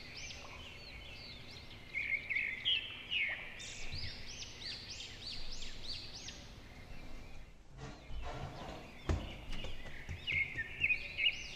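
Birds chirping in the background, a run of quick repeated calls that rise and fall. A single dull thump about nine seconds in.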